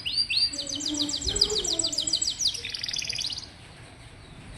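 Domestic canary singing in fast trills: rapid runs of short, high, downward-sweeping notes, about eight a second, shifting to a lower trill about two and a half seconds in and stopping about a second later.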